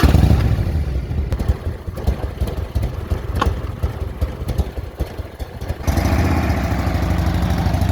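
Motorcycle engine running at idle just after starting, a fast low beat.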